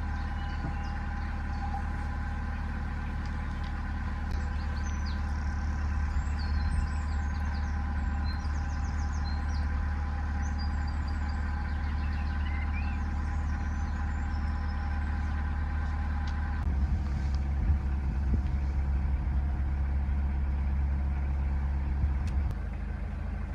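Narrowboat's diesel engine running steadily while cruising, with faint bird chirps for several seconds in the middle. A steady higher hum over the engine drops out about two-thirds of the way through.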